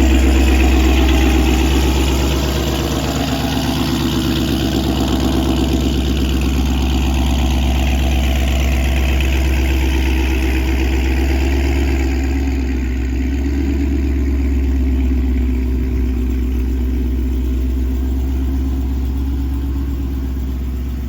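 Supercharged 6.2-litre Hemi V8 of a Dodge Charger Hellcat idling steadily with a deep, low rumble through aftermarket headers and exhaust.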